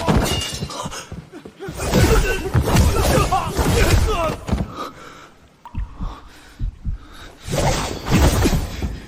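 Fight sound effects: loud crashes of something breaking and shattering, with thuds, coming in three bursts (at the start, from about two to four and a half seconds, and near the end) and sharp knocks in between.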